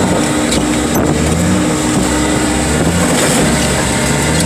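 Heavy machine's engine running loud and steady while working a crushing job, its pitch dipping and rising again several times as it is loaded.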